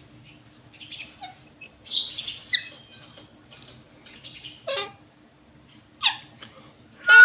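Caged parrots chirping and squawking in short, irregular calls, several of them sharp downward-sweeping squawks in the second half.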